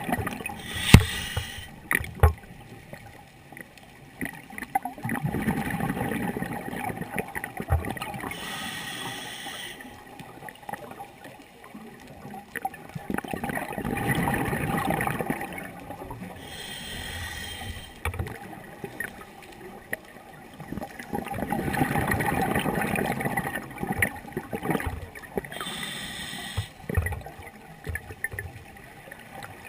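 Scuba diver breathing underwater through a regulator: a short hiss of inhalation, then a longer rush of exhaled bubbles, repeating about every eight seconds. A couple of sharp knocks sound near the start.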